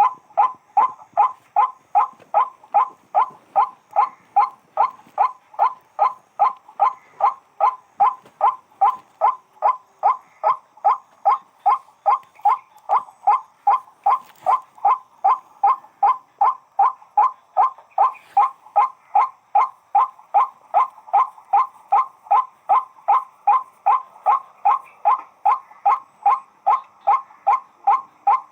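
White-breasted waterhen (wak-wak) calling: a short note around 1 kHz repeated monotonously at about two to three calls a second.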